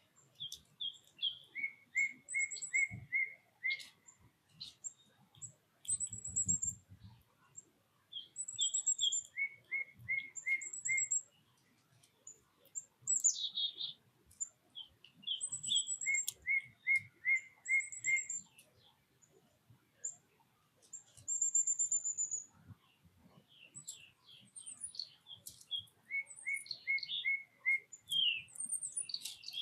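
Songbirds singing: one phrase of about five quick, evenly spaced notes repeats every six to seven seconds, with shorter, higher chirps between the phrases. A brief low thump comes about six seconds in.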